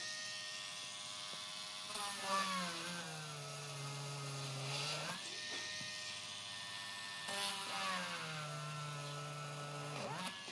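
Small electric motor running with a steady buzzing whine. Twice its pitch sags lower for a few seconds, as if under load, then jumps back up to speed.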